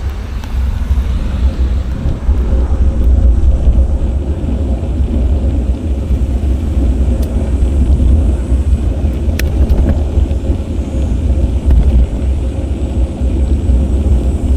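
Steady low rumble from riding a bicycle along city streets: wind buffeting the action camera's microphone, mixed with road noise. A sharp click comes about nine seconds in.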